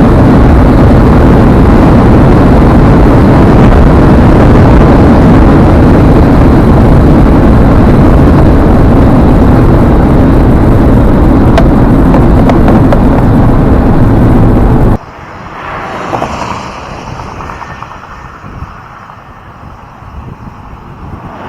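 A Ford Explorer Sport at top speed, around 150 mph: a dense, steady rush of wind and road noise so loud it nearly overloads the recording. About fifteen seconds in it cuts off abruptly to a much quieter, uneven rush.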